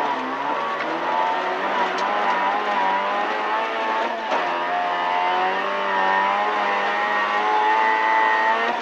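Opel Astra rally car's C20XE 2.0-litre 16-valve four-cylinder engine, heard from inside the cabin, running hard at high revs along a snowy straight, its pitch wavering and climbing, with a brief break about four seconds in. A steady hiss of tyre and road noise lies under it.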